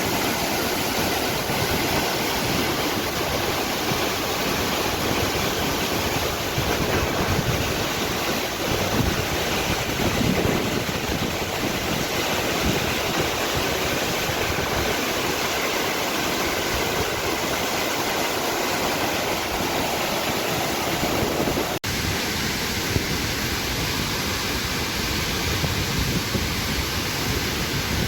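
Steady rushing roar of a waterfall and mountain river, with a brief cut about 22 seconds in, after which the rushing carries on.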